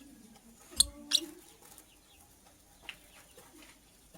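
Lovebird giving two short, shrill chirps in quick succession about a second in, then a fainter single chirp near three seconds.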